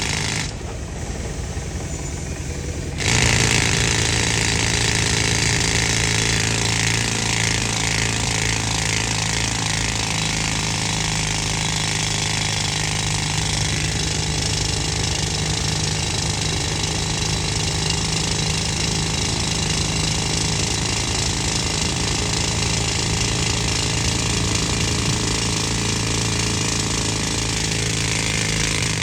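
Pneumatic rock drill hammering on compressed air, starting abruptly about three seconds in and running steadily after that, over the steady drone of the air compressor.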